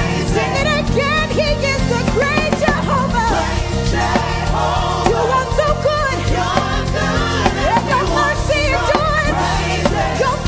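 Gospel worship music: a choir singing over a steady instrumental accompaniment.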